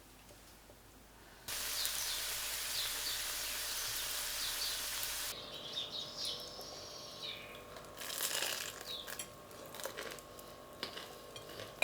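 Small birds chirping outdoors. A loud steady hiss comes in suddenly about a second and a half in and cuts off abruptly about five seconds in. The chirping goes on, with scattered clicks and rustles.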